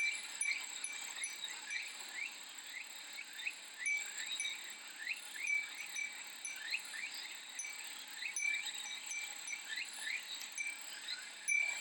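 Cicadas buzzing steadily, with a Japanese fūrin wind chime tinkling over them and many short rising chirps.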